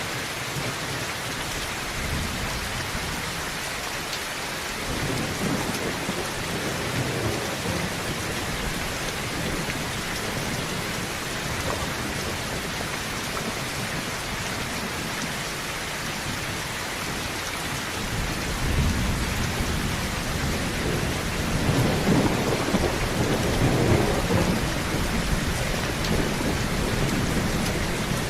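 Heavy rain falling steadily on a tin roof, with a low rumble of thunder a few seconds in and a longer, louder rumble building from about two-thirds of the way through.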